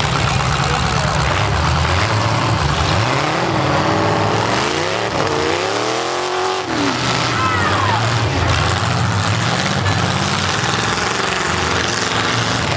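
Several full-size V8 demolition derby cars' engines running together, with one engine revving up and back down around the middle.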